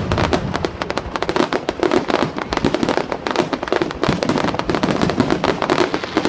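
Fireworks crackling in a dense, unbroken volley of rapid sharp pops, many overlapping.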